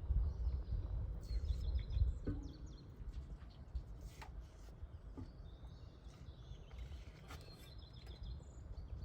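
Small birds chirping in short high calls, one spell about a second in and another near the end, over a low steady rumble.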